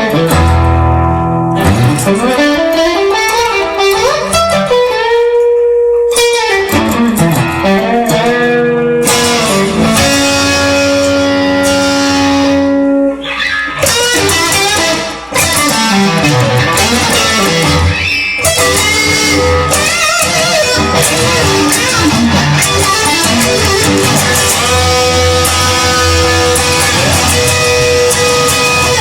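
Instrumental guitar music: a guitar lead playing notes that bend and slide in pitch over a steady backing, with no singing.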